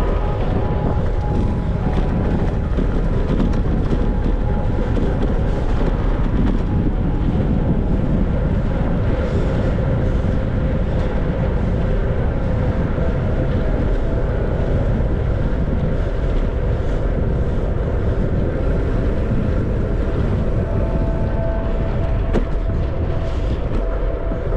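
Steady wind rush buffeting the microphone on a moving bicycle, heaviest in the low end, with faint steady tones running through it.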